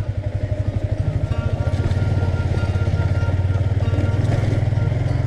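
Motorcycle engine running steadily while riding, its fast low firing pulse the loudest sound, growing a little louder after about a second.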